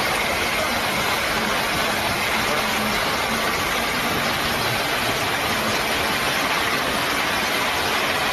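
Fast river water rushing steadily around a heavy log truck as it fords the river, with the truck's engine running underneath.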